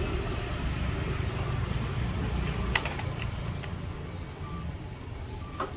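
A few light clicks and taps of small parts being handled during a phone battery fitting, the sharpest a little under three seconds in and another just before the end, over a low steady background hum.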